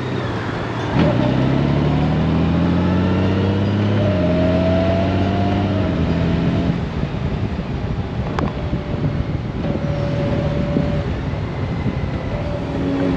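Honda Gold Wing's flat-six engine accelerating under wind and road noise, its pitch climbing and then dropping twice, about four and six seconds in, as the dual-clutch gearbox shifts up.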